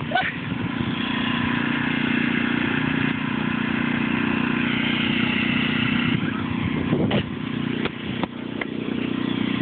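Small tractor engine running steadily, with a few short knocks about two-thirds of the way through.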